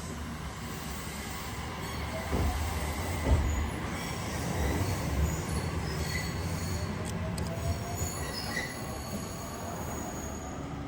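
Train running at the platform with its wheels squealing on the rails and a low rumble, a few knocks about two to three seconds in, and a faint rising tone through the second half.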